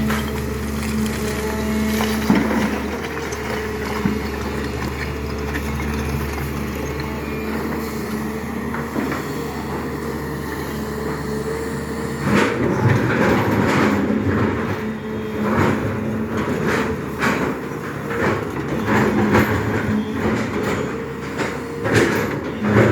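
Excavator diesel engine running steadily. About halfway through, irregular metallic clanks and knocks start, typical of the bucket working against soil and stone.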